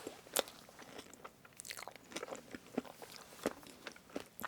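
Close-miked chewing of strawberry fresh-cream cake: a scatter of short sharp mouth clicks and smacks, a few of them louder.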